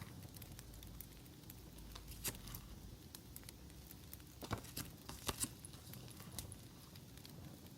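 Paper and sticker sheets being handled, giving soft crinkles and scattered sharp clicks, over a steady low campfire crackle ambience.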